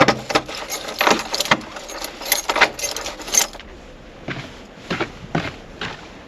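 A quick run of irregular clicks and light clinks for about three and a half seconds, then a few spaced knocks.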